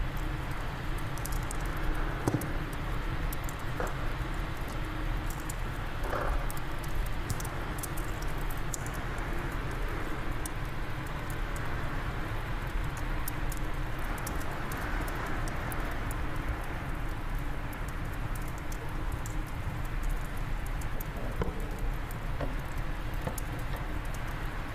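Fireplace fire crackling with scattered small pops, a few sharper ones about two, four and six seconds in, over a steady low rush of wind.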